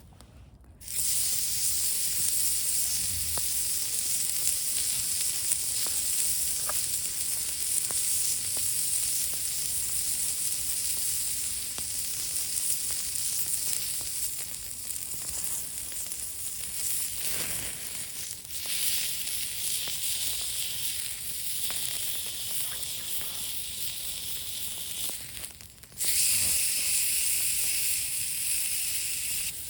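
Steady, high-pitched hiss that starts abruptly about a second in and breaks off sharply for a moment near the end.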